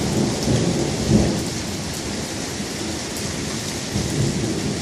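Steady heavy rain falling and splashing on surfaces, with a low, uneven rumble of thunder underneath.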